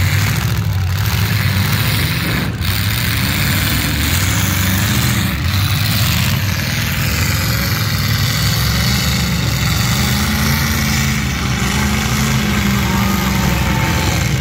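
Demolition derby car engines running loudly and revving up and down as the cars push against each other.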